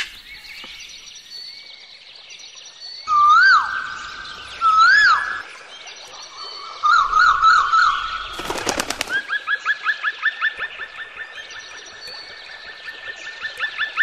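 Birdsong: whistled notes that rise and fall, a quick trill, a short rattling burst about two-thirds of the way in, then a rapid run of repeated rising chirps at about four a second.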